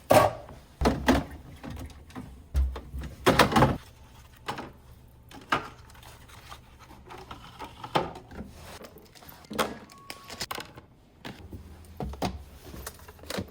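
Irregular knocks, thuds and sliding scrapes of food containers and plastic organizer bins being set down and pushed into place in a refrigerator.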